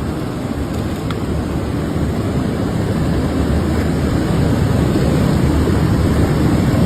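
Rushing floodwater and debris flow: a dense, steady low rumble that grows slightly louder.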